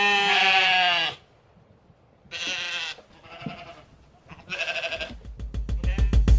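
Livestock bleating: several bleats, the first long and wavering, the later ones shorter. About five seconds in, upbeat children's music with a fast steady beat starts and grows louder.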